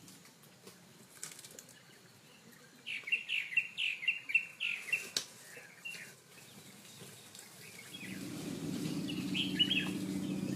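A bird singing a quick run of about ten high, downward-sweeping chirps for a couple of seconds, then a few fainter calls. A steady low hum comes in near the end.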